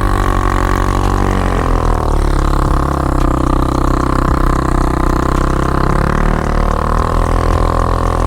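Suzuki LTZ400 quad's single-cylinder four-stroke engine held at high revs under load as the rider tries to drive out of deep snow; the pitch climbs a little about two seconds in and eases back around six seconds.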